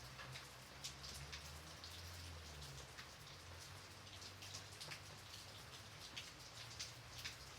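Gentle steady rain: a soft hiss with many separate drops striking at irregular moments, over a faint low rumble.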